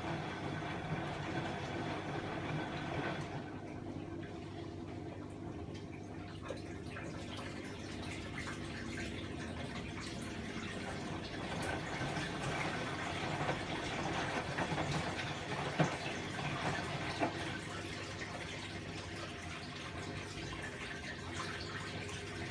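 Bosch WAE24162GB washing machine partway through its rinse cycle: water running and splashing in the machine over a steady hum from its motor or pump.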